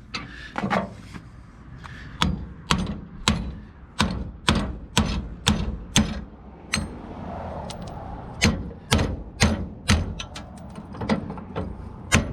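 Big hammer striking a wheel lug stud in the hub, about twenty sharp metal-on-metal blows at roughly two a second, with a pause of about a second and a half past the middle.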